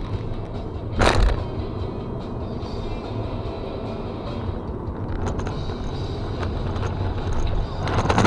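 Steady low road rumble of a car driving, with a short, loud burst of noise about a second in and another, longer loud burst near the end.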